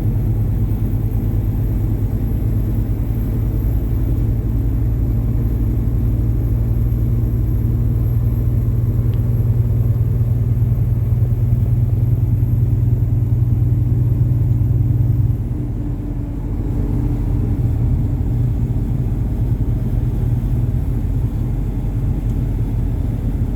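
Truck's diesel engine running steadily under way as a low drone. About fifteen seconds in, the low drone changes and the level dips briefly, then the engine carries on.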